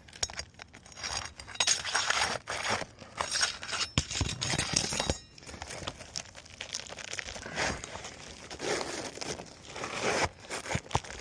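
Asphalt roof shingles being worked loose by hand: irregular scraping and crinkling, with a few sharp clicks.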